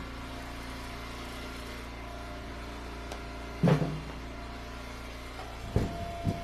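Engine-driven hydraulic log splitter running steadily, with a sudden loud crack a little past halfway as a round is split, and a couple of smaller knocks near the end.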